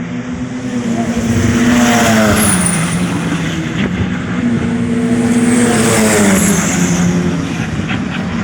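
TC2000 turbo touring race car engine running hard, its note dropping about two seconds in and again about six seconds in before climbing back.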